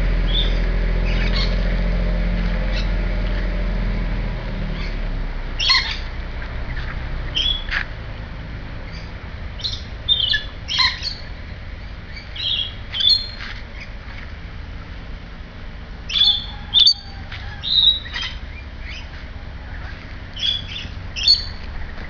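Birds squawking and chirping in short, high calls, scattered throughout and sometimes two or three in quick succession. A low rumble underlies the first four seconds or so, then fades.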